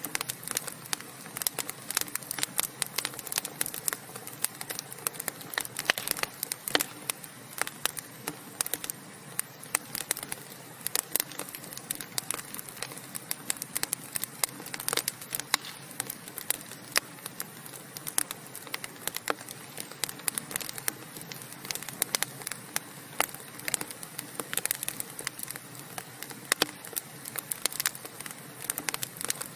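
Wood fire crackling and popping steadily, with many small irregular snaps over a soft hiss of burning logs.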